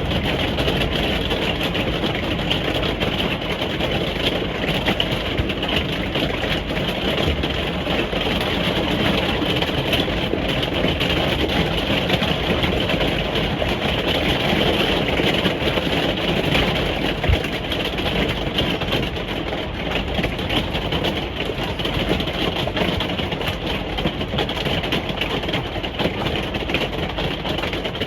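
Steady rain falling on a caravan roof, heard from inside the caravan: a dense patter of drops over a continuous hiss and low rumble.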